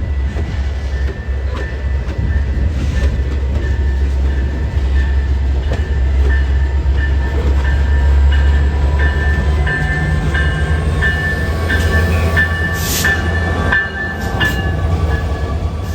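A train running past on the tracks: a steady low rumble, with short high-pitched tones repeating over it that grow busier about halfway through.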